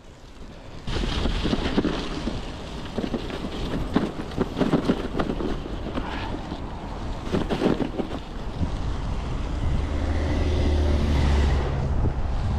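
Wind buffeting the microphone during a bicycle ride, with scattered sharp knocks and rattles, likely from the gravel bike over frozen, rutted snow. The low rumble swells briefly near the end.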